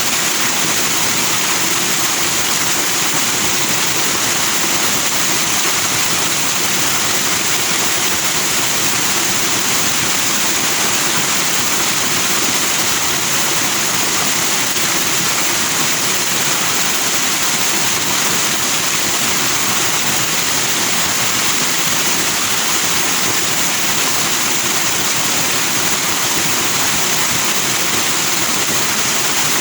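Forest stream flowing fast over rocks, white water rushing and splashing in a steady, unchanging wash.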